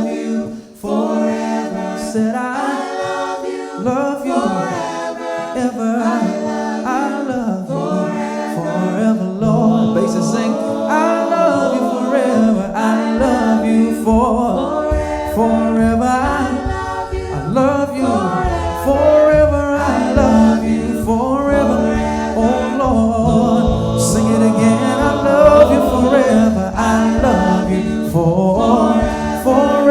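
Gospel singing, several voices in harmony over a steady held note, with a low bass part coming in about thirteen seconds in.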